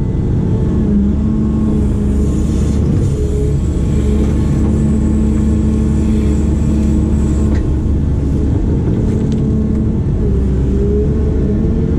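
Diesel engine of a heavy digging machine running steadily under work, with a steady pitched whine over the drone that bends slightly about ten seconds in.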